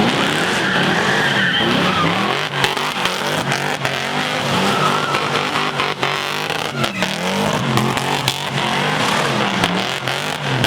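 A car engine revving hard in a burnout. Its pitch climbs and drops again and again over the screech of spinning tyres, with a few sharp pops.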